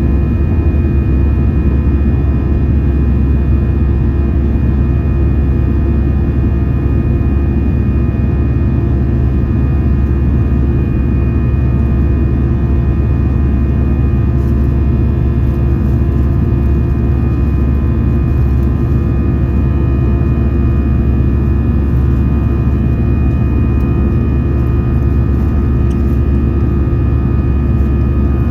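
Cabin noise of an Airbus A320-214 heard from a window seat, its CFM56 jet engines running at constant thrust. A steady deep rumble carries a few steady tones over it, with no change in pitch or level.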